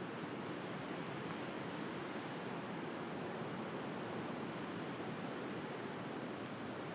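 Steady wash of sea surf, with a few faint pops from a crackling wood fire.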